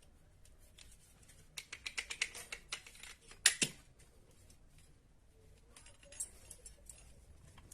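Small hard parts and tools handled on a workbench: a quick run of light clicks and clatter, with one sharp click about three and a half seconds in and a few softer clicks later.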